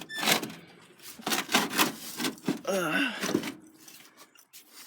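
Clunks, clicks and rubbing from a car battery and its terminal hardware being handled and repositioned in the engine bay, with a short wavering tone about three seconds in.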